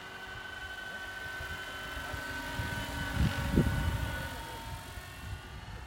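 Radio-controlled Jet Ranger model helicopter in flight: a steady high whine from its motor and rotors, growing louder to a peak with low buffeting about three and a half seconds in, then fading again.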